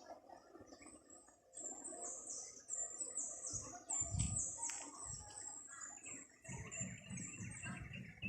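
A bird singing a long, rapid series of high, thin notes that each slide downward, about two to three a second, starting about a second and a half in. Low rumbling thuds come in the middle and near the end.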